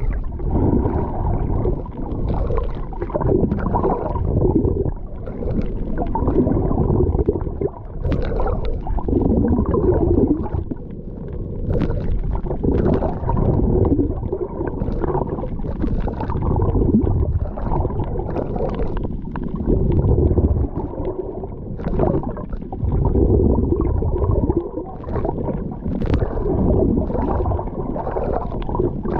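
Sea water sloshing and gurgling, heard as a muffled low churning rumble that swells and ebbs every second or two, with scattered sharp clicks and splashes.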